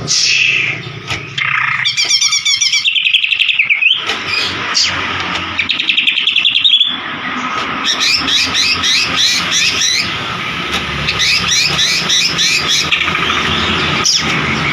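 White-rumped shama (murai batu) singing: fast runs of rapidly repeated chirps and trills, one series after another.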